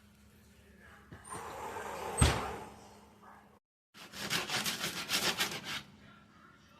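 Kitchen handling noise with one sharp knock, then after a cut a run of rapid rasping strokes, a knife sawing through the crispy baked French roll sandwich.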